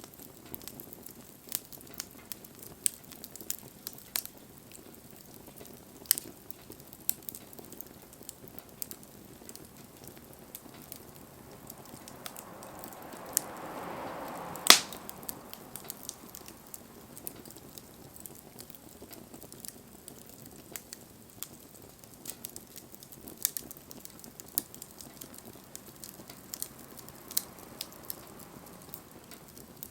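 Wood fire crackling, with irregular sharp pops over a low hiss. About halfway through, a hiss swells for a couple of seconds and ends in one loud pop.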